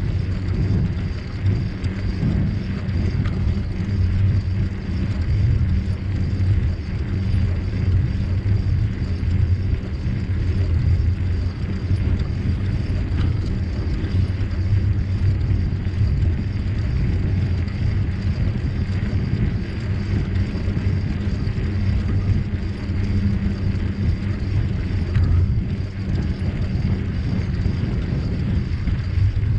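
Steady low rumble of riding a bicycle, with wind buffeting the microphone and the tyres running over the trail.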